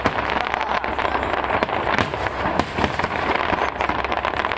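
Aerial fireworks going off in quick succession: a dense run of sharp bangs and crackles, several a second.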